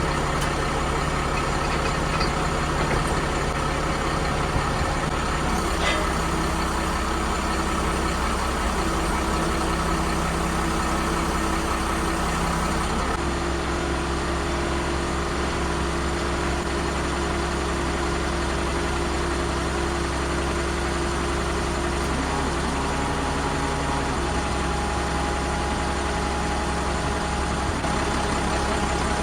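Truck engine idling steadily while the truck-mounted crane is worked, with a whining tone above the engine that shifts to a new pitch a few times.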